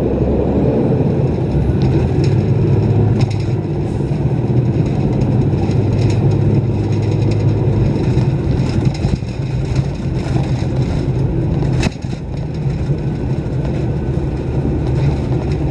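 Caterpillar diesel engine of a 2006 Blue Bird All American school bus running steadily under load as the bus climbs a steep hill. A sharp click comes about twelve seconds in, with a brief dip in level.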